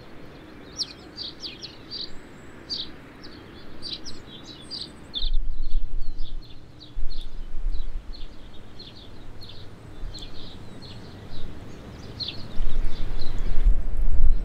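Small birds chirping and singing in quick high notes throughout. About five seconds in the sound changes and gusts of wind buffet the microphone in loud low bursts, coming and going and strongest near the end, while the birdsong carries on more faintly.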